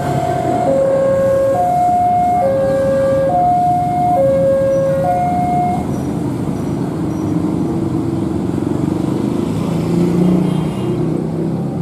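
A two-tone warning signal alternating high and low, each tone held just under a second, until about six seconds in. Underneath it a train runs with a steady rumble.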